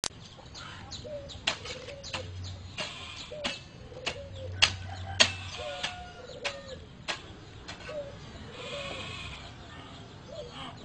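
Hoe blade striking and scraping dry ground: sharp hits at an uneven pace, one or two a second. Short animal calls sound in the background.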